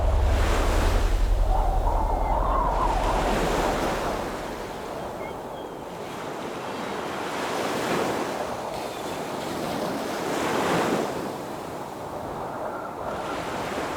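Ocean surf: waves breaking and washing in, swelling and fading in about four surges.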